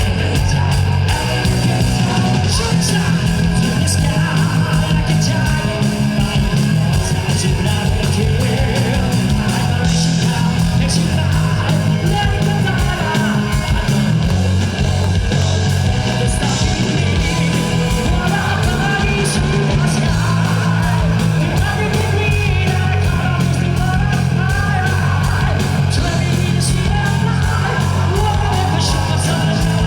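Live rock band playing loud, with driving bass guitar and drums, electric guitar, and a singer's high yelled vocals over it.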